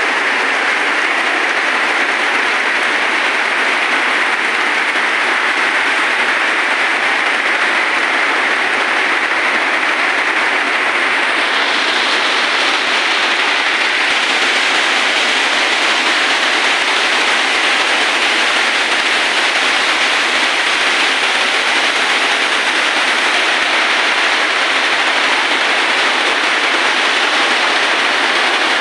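Heavy rain pouring steadily onto foliage and a corrugated metal roof. About twelve seconds in, the hiss turns brighter and sharper and stays that way.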